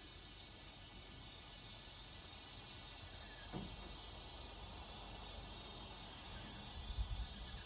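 Steady, high-pitched insect chorus drone, unbroken throughout.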